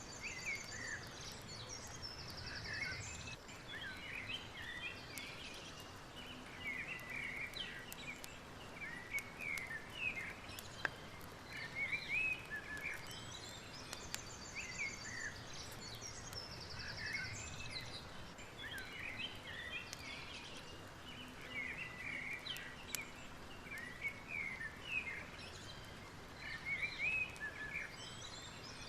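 Several birds chirping and whistling in quick short calls, with a high buzzing trill now and then, over a steady soft hiss; the same stretch of calls repeats about every fourteen seconds.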